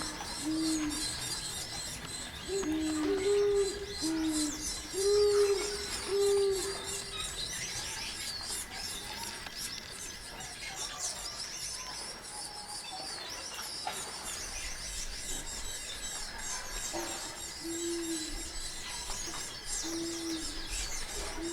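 Small finches, Gouldian finches among them, chirping and twittering continuously, joined by short, low hooting notes in runs of several, early on and again near the end.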